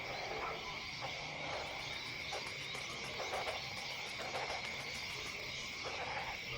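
Insects, such as crickets, calling in a steady high-pitched trill, with faint softer sounds underneath.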